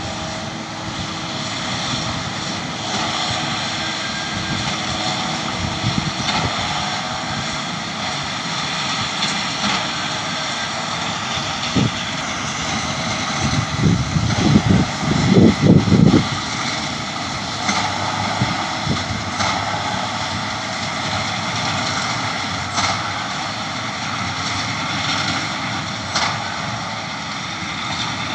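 John Deere tractor engine running steadily while pulling a round baler through straw, with a hum running throughout. A cluster of low rumbles comes about halfway through.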